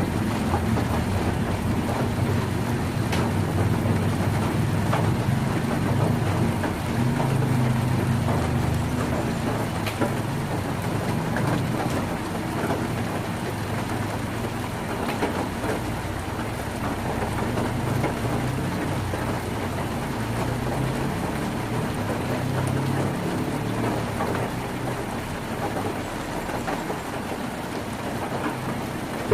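Heavy rain drumming steadily on a tin roof. A low rumble runs under it for the first ten seconds or so, then eases off.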